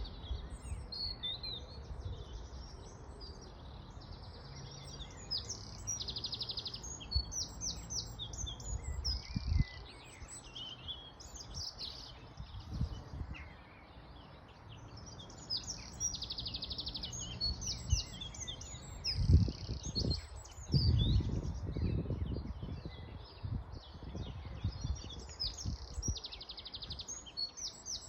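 Several songbirds singing and chirping together, with repeated short trills and whistled notes. Low rumbles and thumps come through for a few seconds a little past the middle.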